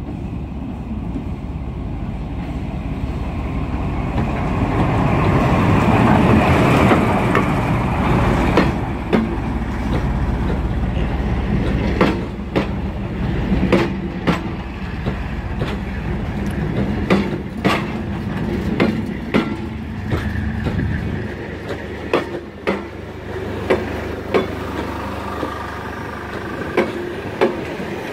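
A locomotive-hauled passenger train passing close by. Its rumble builds to a peak about six or seven seconds in as the locomotive goes past. After that the coaches' wheels clack over the rail joints, often in quick pairs.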